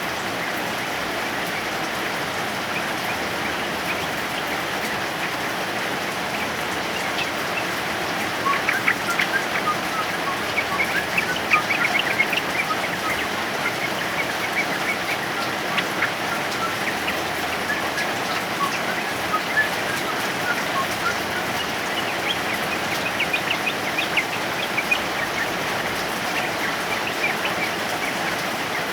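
Steady heavy rain with a male yellow-vented bulbul (trucukan) singing in quick chattering runs of short notes: one run about eight seconds in, another past the two-thirds mark, with scattered single notes between.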